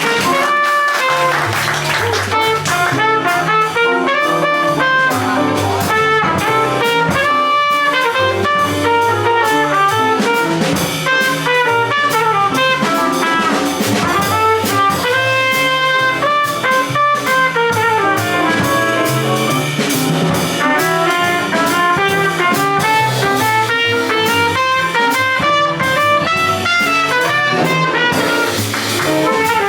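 Live small jazz combo playing: a horn carries a moving melody line over bass and drums with cymbals.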